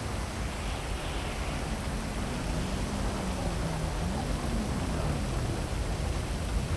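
Heavy rain falling steadily as a dense, even hiss, with a low city rumble underneath. A faint low tone wavers up and down in the middle.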